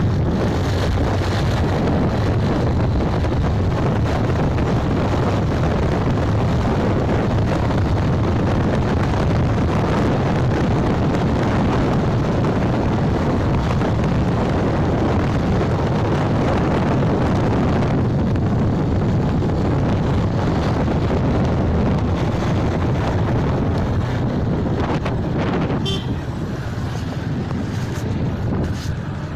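Wind buffeting the microphone on a moving motorbike, over the bike's engine and road noise, steady and loud. It eases slightly near the end, with a few faint clicks.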